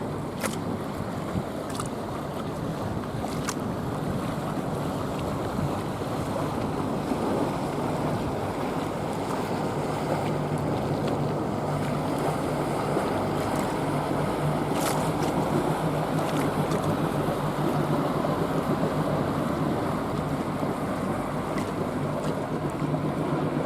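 A passing motorboat's engine hums steadily, growing stronger from about ten seconds in. Water laps and wind buffets the microphone.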